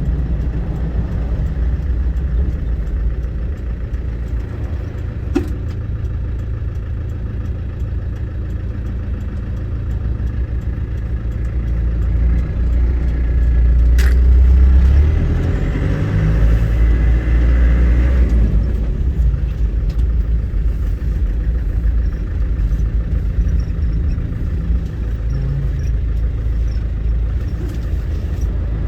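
Land Rover Defender 300Tdi turbo-diesel and road noise heard inside the cabin while driving, a steady low drone. It grows louder for a few seconds about halfway through, and two sharp clicks sound, one early and one midway.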